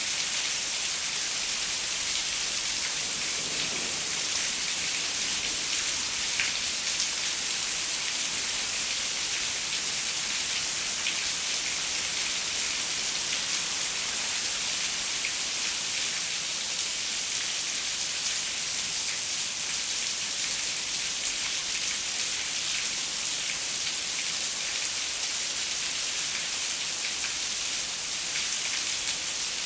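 Steady rain falling on a window, an even hiss with many fine drop ticks.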